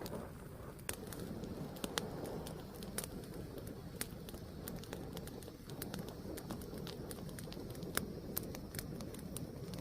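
Fire burning, crackling with frequent sharp pops and snaps over a low steady rush of flames.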